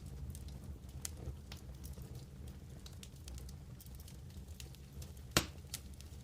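Wood campfire crackling, with many small snaps over a low steady rumble of burning, and one loud pop about five seconds in.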